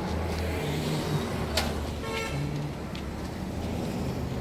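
A vehicle engine runs with a steady low hum. A sharp click comes about one and a half seconds in, and a short horn toot follows about two seconds in.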